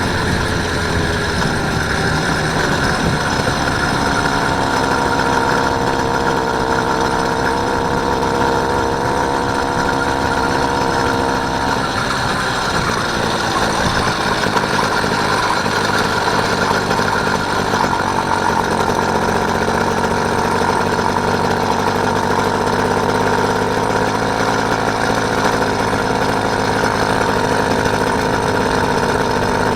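Small engine of a motorised bike running steadily during a ride, its pitch shifting slightly partway through.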